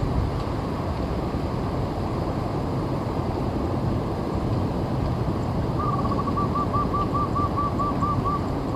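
Steady wind rumble on the microphone; about six seconds in, a bird starts a rapid run of short, even calls, about four a second.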